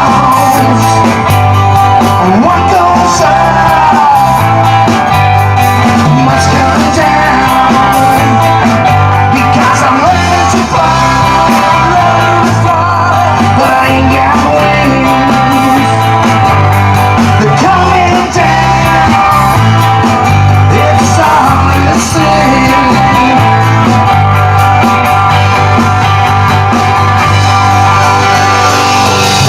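Live rock band playing a song, loud and continuous, with a steady bass pattern pulsing underneath and a sliding melody line over it.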